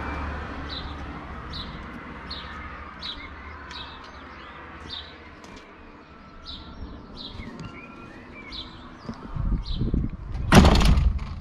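A small bird chirping over and over, one short falling chirp about every three-quarters of a second, with other birdsong in between. A low hum fades over the first few seconds, and near the end comes a loud, short burst of noise over a low rumble.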